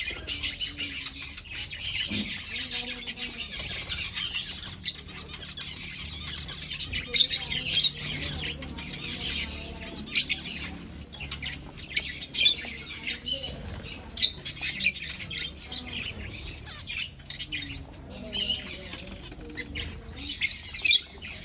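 A colony of aviary finches chirping and calling over one another without pause, with frequent sharp, louder single calls standing out.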